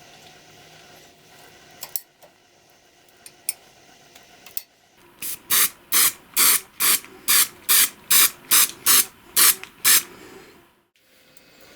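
About a dozen short, quick bursts of pressurised spray hissing, roughly three a second, starting about halfway through and stopping near the end, after a few light clicks.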